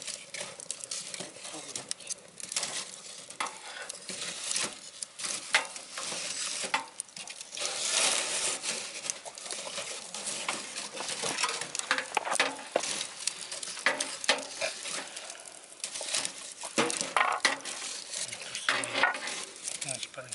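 Wood fire burning scrap lumber in a wood stove, crackling with irregular sharp pops and snaps over a steady hiss, the hiss swelling for a couple of seconds about eight seconds in.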